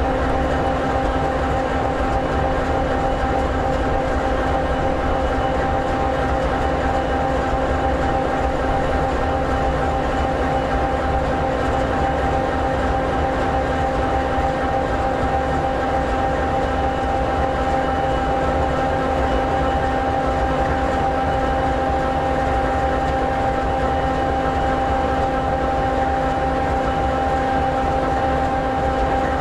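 EMD 16-710G3B V16 two-stroke diesel engine of an SD60E locomotive idling steadily: an even, unchanging drone with a steady hum.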